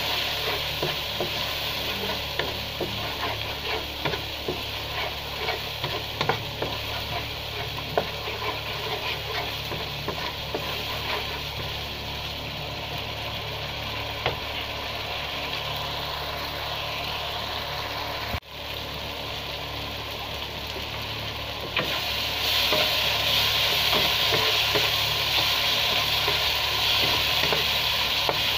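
Chili powder and spices frying in oil in a wok: a steady sizzle, with a wooden spatula scraping and clicking against the pan as it stirs. A low steady hum sits underneath. The sizzle gets louder about three-quarters of the way through.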